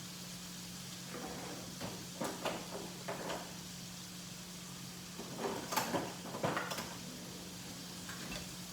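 Kitchen handling sounds: two short spells of light knocks and scrapes from cookware or cupboards, over a steady low hum.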